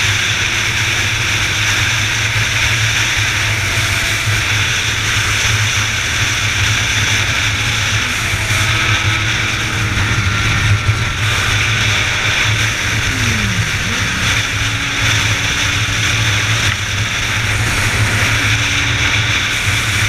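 A motorcycle travelling at speed: a steady drone of engine, wind and road noise, with faint tones sliding up and down now and then.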